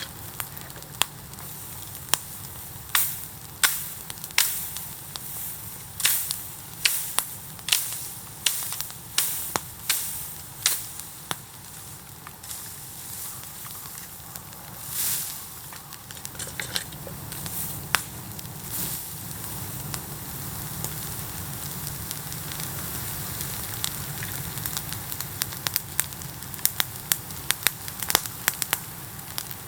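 Bamboo bonfire burning with a steady rush of flame and irregular sharp cracks and pops as the bamboo splits and bursts in the heat. The cracks thin out to a steadier hiss for a while, then come thick and fast again near the end.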